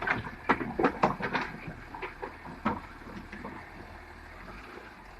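Sharp knocks and clatters, several a second, over the first three seconds, then a faint, steady low rumble.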